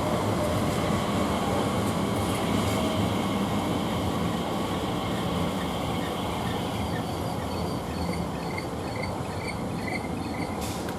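Electric passenger train running at a station platform, a steady rumble that slowly fades. A run of short high chirps repeats about twice a second in the second half.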